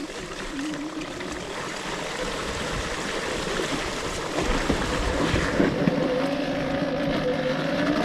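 Electric enduro motorcycle riding off-road: wind and rolling noise over the microphone with a steady motor whine, which grows louder about halfway through.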